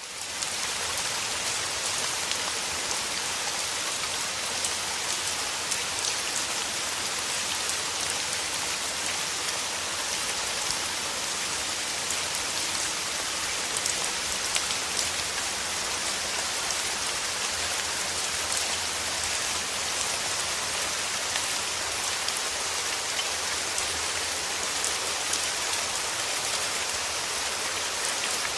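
Steady rain falling, a dense even patter of many drops, fading in at the very start.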